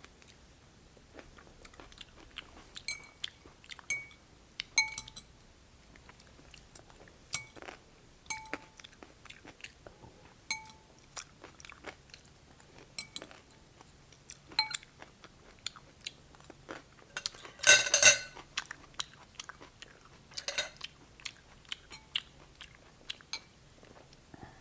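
Crunchy chewing of cold cucumber soup close to the microphone, with short clinks of a utensil against the bowl that ring briefly, a dozen or so times. One louder, longer sound comes about three-quarters of the way through.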